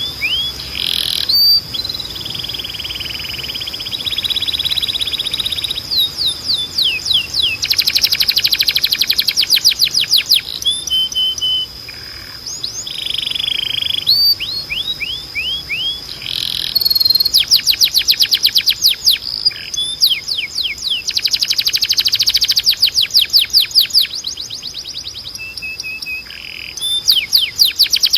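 Timbrado canary singing: fast trills and rolls of rapidly repeated notes, with runs of falling whistled notes, the phrase changing every second or two over a steady high held tone.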